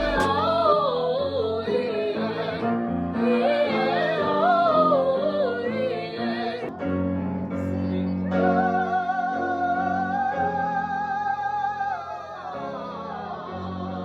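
A woman singing in an operatic style with wide vibrato over piano chords, her line rising and falling for the first half and then settling into one long held note before stopping near the end.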